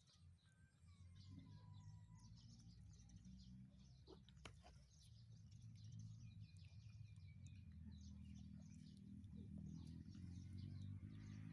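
Faint chirping of small birds, many short calls throughout, over a low steady hum, with a couple of soft clicks about four seconds in.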